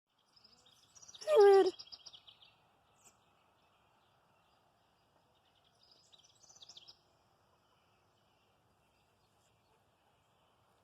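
A chicken gives one short, loud squawk with a wavering, falling pitch about a second in. High bird chirps sound around it and again near the middle, over a faint steady background noise.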